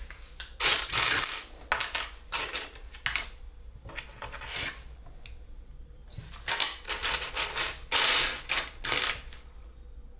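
Small plastic LEGO pieces clattering and rattling against each other in several bursts, the loudest near the end.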